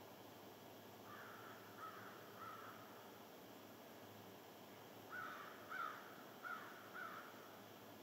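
Faint bird calls over a steady low hiss: three short calls just over a second in, then four more from about five seconds in.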